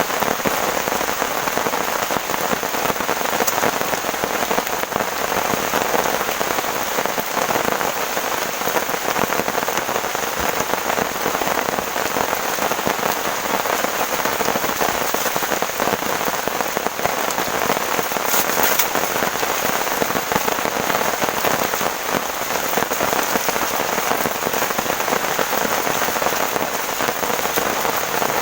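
Heavy rain pouring steadily, a dense even hiss of drops with no letup.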